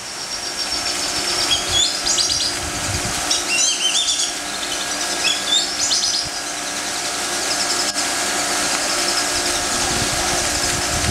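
Birds chirping in quick, warbling calls through the first several seconds, fainter afterwards, over a steady mechanical hum.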